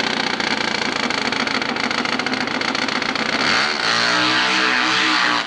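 Hillclimb racing motorcycle engine running, then revving up about three and a half seconds in, when its note grows louder and clearer.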